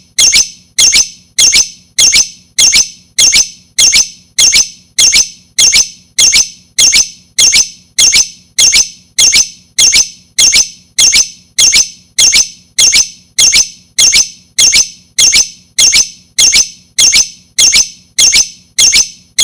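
Lovebird chirping: a short, sharp, high call repeated at a steady, even rhythm of about two a second, each chirp a quick double note. It is a lure call, meant to set other lovebirds calling.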